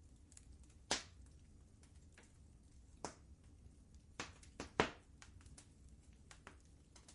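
Wood fire crackling in a fireplace: irregular sharp pops and snaps, the loudest about a second in and two close together a little past the middle, over a steady low rumble.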